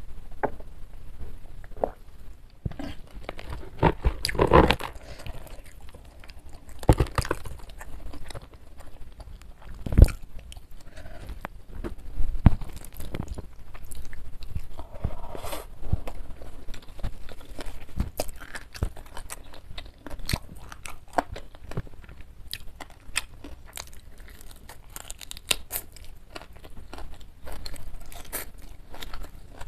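Close-miked eating: crunching and chewing of crispy fried chicken and fern shoots, with many sharp bite clicks and a few louder crunches.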